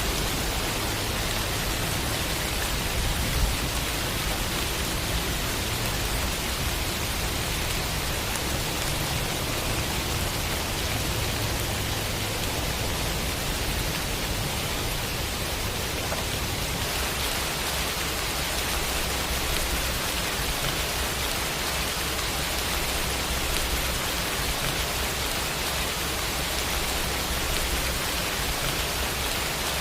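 Rain sound effect: a steady, even hiss of rainfall, its tone shifting slightly about halfway through.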